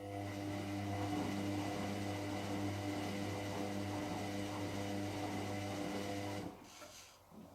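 Hotpoint Extra WMXTF742K washing machine running with a steady electric hum for about six seconds, then cutting out.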